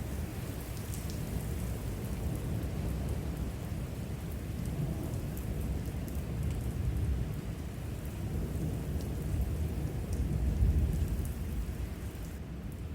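Thunderstorm: steady rain with a continuous low rumble of thunder that swells several times, loudest near the end, and scattered sharp ticks of raindrops.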